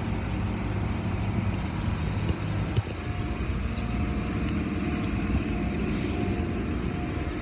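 A motor vehicle's engine running steadily as a low rumble, with a single sharp knock about three seconds in.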